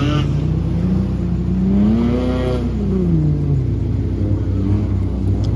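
Toyota Cressida's swapped-in 3S-GTE turbocharged four-cylinder engine running near idle, revved up once about two seconds in and then falling back.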